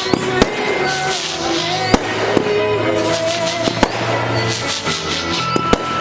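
Fireworks shells bursting in a show: about half a dozen sharp bangs spread through, with held notes of music playing underneath.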